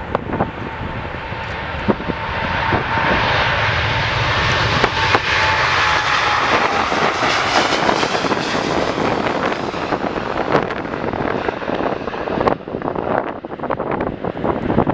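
Jet airliner passing on departure, its engine roar swelling and then easing off, with a whining tone that drops slightly in pitch as it goes by. Wind buffets the microphone throughout, more so near the end.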